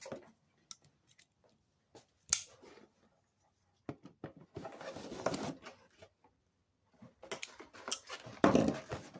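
Plastic packaging being handled and unwrapped to free an RC transmitter: crinkling and rustling in stretches, with a sharp click or snip about two seconds in.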